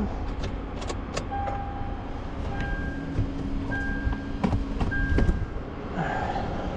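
A vehicle engine running steadily, with a few sharp clicks near the start and short electronic tones repeating roughly once a second through the middle.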